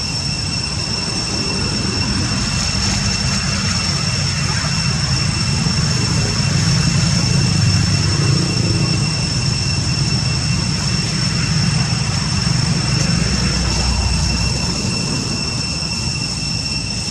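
A low engine rumble that grows louder through the middle and eases off near the end, over a steady high-pitched whine.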